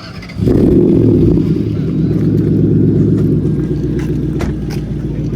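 A loud car engine and exhaust that comes in suddenly about half a second in and holds a steady low rumble, easing off slightly toward the end.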